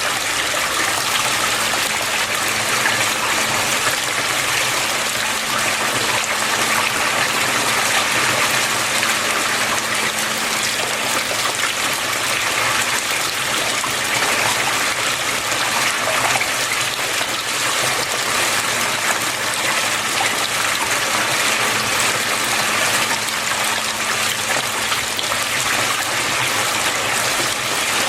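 Water flowing and splashing steadily, with a faint low hum underneath.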